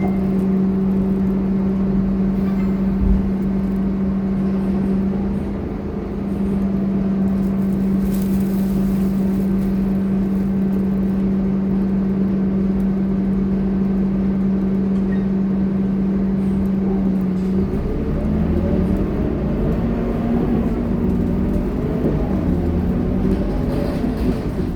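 Scania K230UB bus's diesel engine running with a steady hum. About two-thirds of the way through, the note begins to waver and rise.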